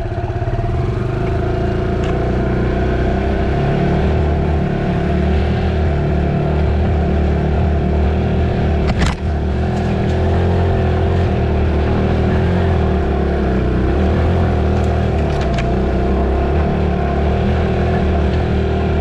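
Dirt bike engine running at a fairly steady speed, with one sharp click about halfway through.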